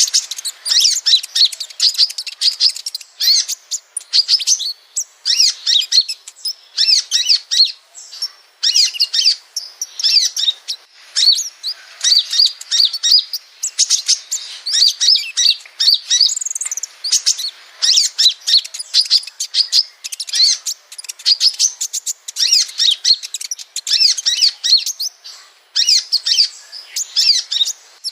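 Small sunbird, the kolibri ninja kept as a songbird in Indonesia, singing a rapid, high twittering song in phrases of quick chirps and trills with short pauses between them.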